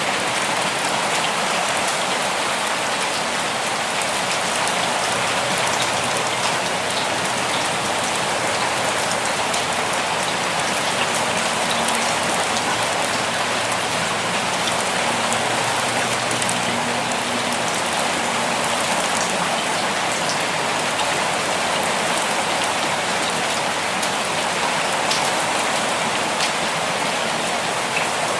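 Steady rainfall, a dense even hiss of drops striking a surface, with small individual drop ticks here and there.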